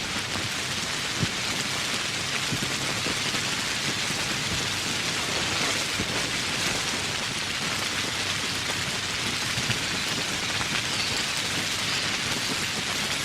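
Steady heavy rain falling and pattering on surfaces, an even hiss with scattered individual drop ticks.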